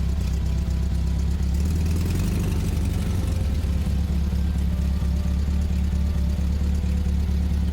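Heavy vehicle engine running steadily with a low, even drone.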